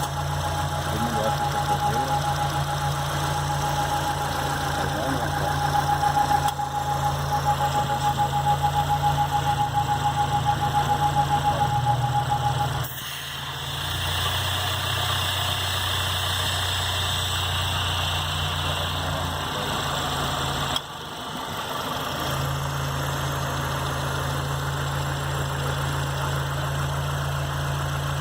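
Renault Duster engine idling with a noise that sounds like a belt or pulley but that the owner traces to the engine's crankcase breather. A thin steady whine sits over the engine for the first thirteen seconds or so, then stops.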